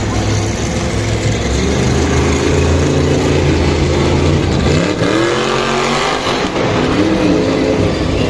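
Monster truck engine running loudly and revving, its pitch rising and falling about halfway through and again near the end.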